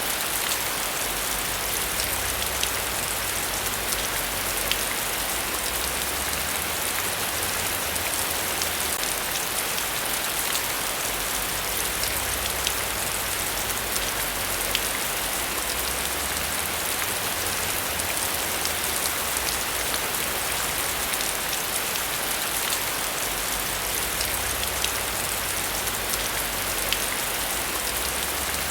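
Heavy rain falling steadily: a dense even hiss with scattered sharp drop ticks, over a low rumble that comes and goes.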